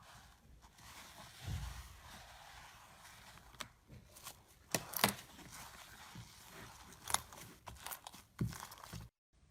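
Slime being squeezed and stretched by hand, giving irregular clicks, pops and crackles over a soft squelching noise, with a dull thump early on. It cuts off abruptly near the end.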